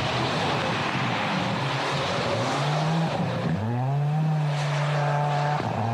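Rally car engine running hard with road and tyre noise. About three and a half seconds in, the revs climb and then hold a steady note.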